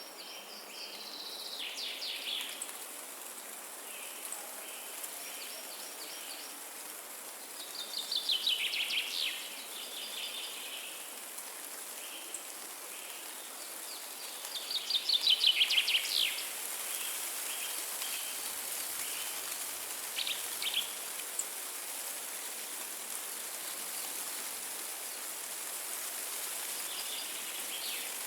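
A songbird singing fast trilled phrases, three loud ones several seconds apart with shorter, fainter notes between, over a steady hiss of wind in the forest trees.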